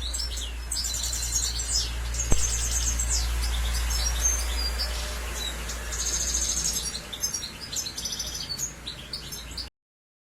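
European goldfinch singing: phrases of fast, high twittering trills and chirps, over a steady low hum. A single sharp click comes about two seconds in, and the sound cuts off suddenly near the end.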